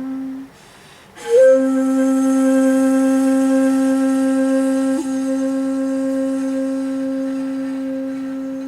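Shakuhachi bamboo flute played in komuso style. After a short breath pause, a long low note is breathed in with an upward scoop and held steadily, with a quick flicked ornament about five seconds in.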